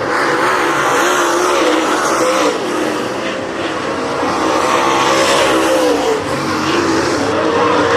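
Race car engines running at speed, their pitch wavering up and down throughout.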